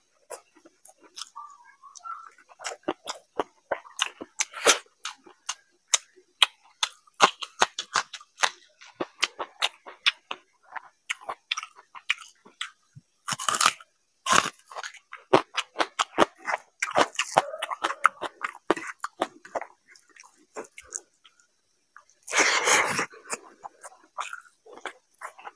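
Close-miked chewing of a person eating rice and curry by hand: a dense run of wet mouth clicks and smacks, with a few louder noises, the longest about twenty-two seconds in.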